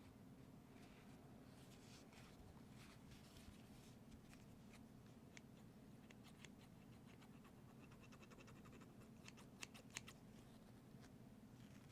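Faint scattered clicks and light scratching from small objects handled close to a microphone, with a short run of sharper taps about nine to ten seconds in.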